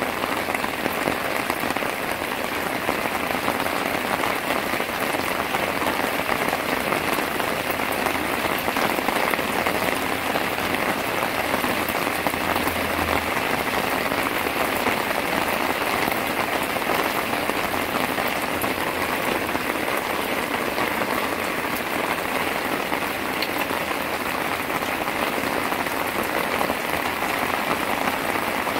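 Rain falling steadily at night, an even, dense patter of drops on the ground with no let-up.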